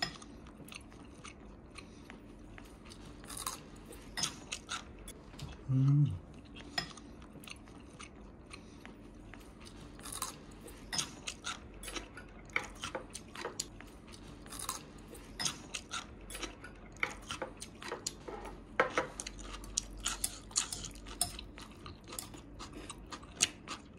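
Close-up chewing and crisp crunching of seasoned cucumber and garlic chive salad, with irregular light clicks of a spoon and chopsticks against ceramic bowls.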